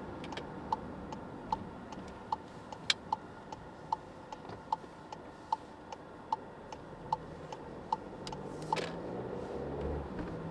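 A car's turn-signal indicator ticking in an even tick-tock, about one on-off cycle every 0.8 s, over the steady hum of the car. The ticking stops after about eight seconds, followed by a short whoosh.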